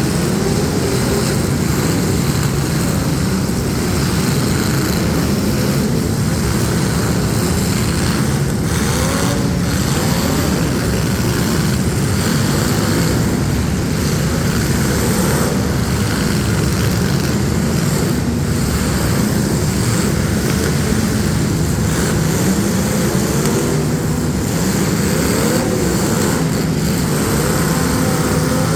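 Engines of several street stock demolition derby cars running and revving hard together, their pitch rising and falling, with a few sharp knocks about eight to ten seconds in.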